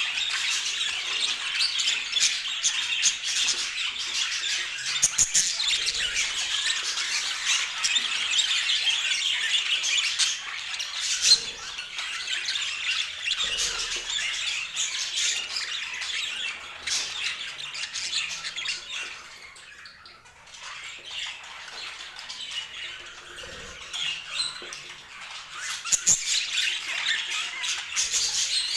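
Budgerigars chattering and squawking continuously in a dense stream of short calls, thinning out briefly about two-thirds of the way through before building again.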